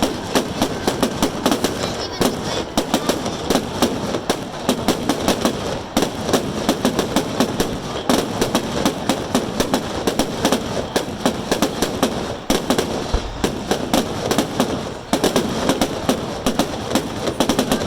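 Fireworks going off in a rapid, dense series of sharp bangs and crackles, many each second, with hardly a pause.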